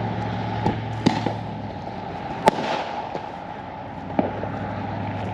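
Scattered firework bangs: four or so separate sharp pops, the loudest about two and a half seconds in, over a steady low hum.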